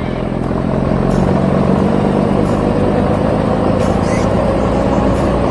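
Truck engine running steadily as the truck drives along, swelling slightly in the first second.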